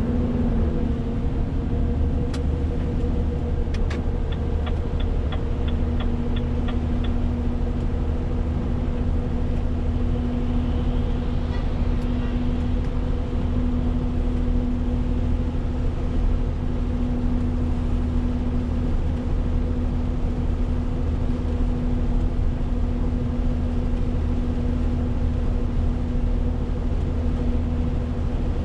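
Renault T520 truck's six-cylinder diesel engine running steadily under way, a constant hum over low road rumble. A short run of quick, even ticks comes about five seconds in.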